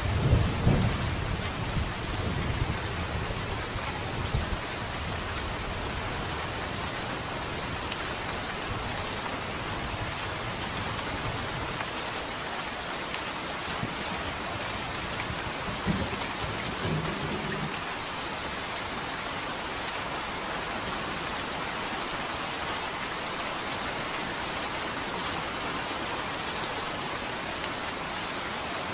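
Steady heavy rain falling, with thunder rumbling at the start that fades away over the first few seconds, and a faint distant rumble about halfway through.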